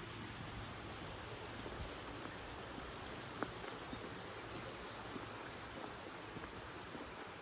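Steady outdoor background hiss with a single faint click about three and a half seconds in.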